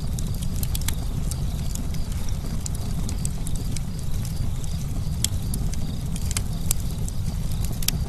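Campfire crackling: frequent sharp, irregular pops and snaps of burning wood over a steady low rumble.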